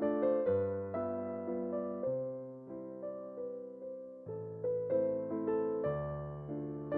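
Background music: solo piano playing a light piece, its notes struck and left to fade, with a bass note changing every second or so.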